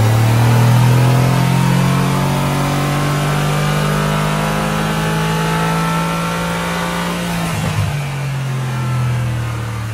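Mercedes-AMG GT S 4.0-litre twin-turbo V8 running at a steady idle, heard close up in the open engine bay, with a short bump about three-quarters of the way through.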